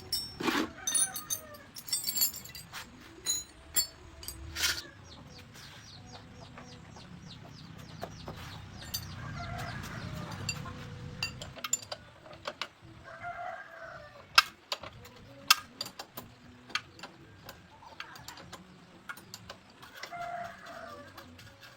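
Scattered sharp clicks and knocks of hand tools working on a motorcycle wheel, with a few short animal calls and a low rumble that swells and fades about halfway through.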